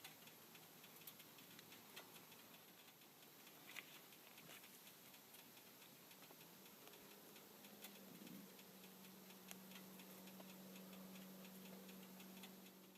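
Near silence: faint hiss with scattered faint ticks, and a faint steady hum that comes in about seven seconds in.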